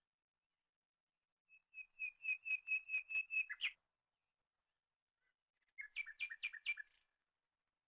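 A bird singing two rapid runs of repeated whistled notes: the first, about ten notes on one pitch, lasts about two seconds and ends on a sharper note; the second, a few seconds later, is shorter and lower, each note dipping between two pitches.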